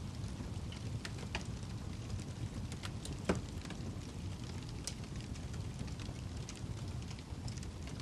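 Wood fire burning in a fireplace: a steady low rush of flame with scattered sharp crackles and pops, the loudest a little over three seconds in.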